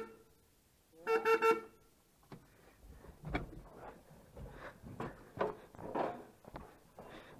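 A big tractor's horn gives one short toot about a second in, a steady pitched tone with several overtones. Faint, irregular knocks and clicks follow.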